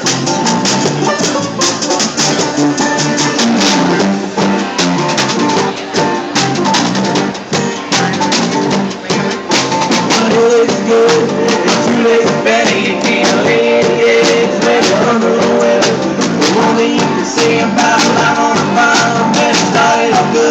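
Live rock band playing a song, with guitar and a drum kit.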